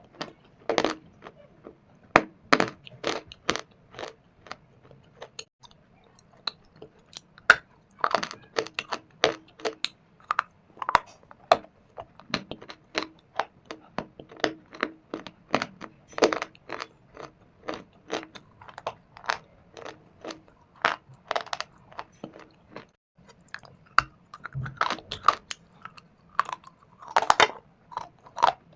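A person biting and chewing pieces of dry shale stone and clay close to the microphone: dense, irregular crisp crunches, several a second, with a brief pause a little after the middle.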